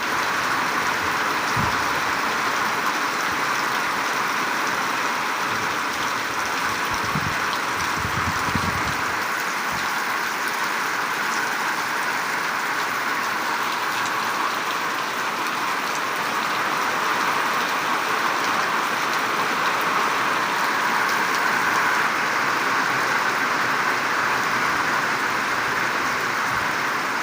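Steady rain falling in a constant hiss, with a few low thuds in the first ten seconds.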